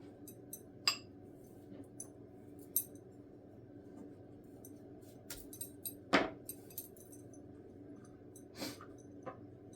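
Scattered light clicks and taps of a knife being worked into an orange peel to punch a string hole, the sharpest about a second in and just after six seconds in.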